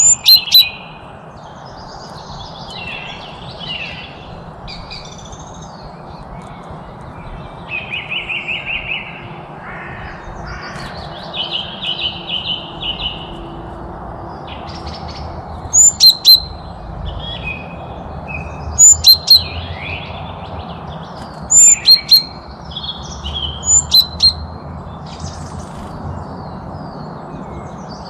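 Several wild birds calling and singing. A loud, sharp call comes in groups of two or three every few seconds, between trilled songs and softer chirps, over a steady background hiss.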